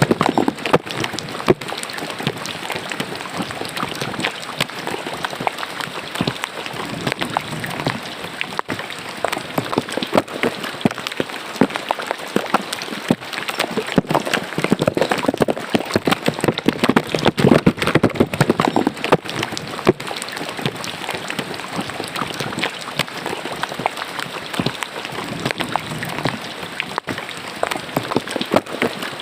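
Rain falling into a roadside drainage ditch: a dense, steady patter of drops splashing on the water, with no let-up.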